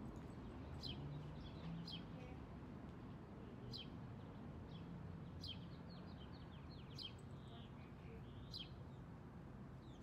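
A bird chirping faintly: about six short, high, downward-sliding calls a second or two apart, with a quicker twittering run in the middle, over a steady low background rumble.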